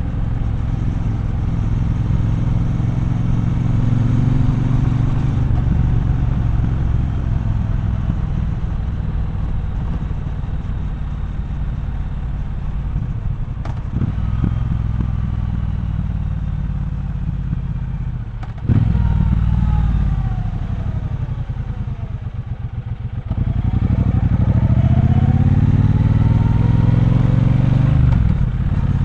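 Triumph Bonneville Bobber's 1200 cc parallel-twin engine running under way in traffic. It holds a steady note, jumps in loudness about two-thirds of the way through, eases off, then opens up again with the pitch rising as it accelerates near the end.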